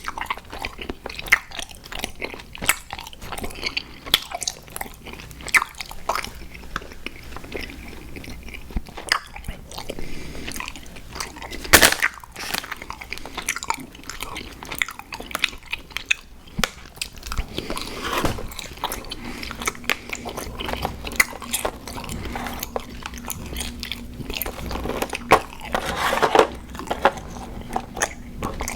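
Close-miked chewing and biting of sour gummy worms cereal: a steady run of sticky, crunchy mouth sounds with frequent small clicks and crackles, and one sharp louder bite about twelve seconds in.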